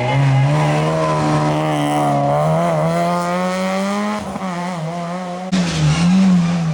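Rally car engine pulling hard, its pitch climbing steadily for about four seconds, then a brief lift and waver before the engine comes back on harder and louder near the end.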